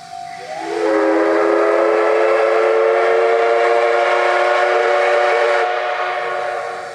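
C58 steam locomotive's whistle blown in one long blast: several tones slide up together as it opens about half a second in, hold steady for about five seconds, then fade near the end.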